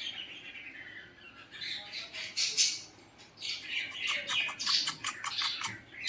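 Pet parrot squawking in harsh, scratchy bursts, with a run of quick squawks in the second half.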